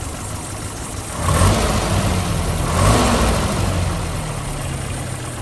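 The 1979 Land Rover Series 3 Lightweight's reconditioned 2.25-litre military engine, warm, idling and then revved about a second in, rising twice before falling back to idle. There is no top-end rattle at this temperature.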